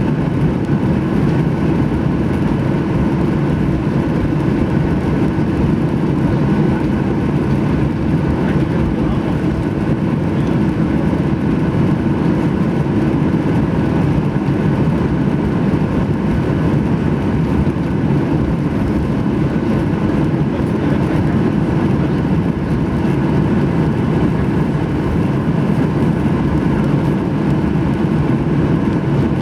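Boeing 737-800 jet engines heard from inside the passenger cabin: a loud, steady rush and hum with faint whining tones, unchanging throughout.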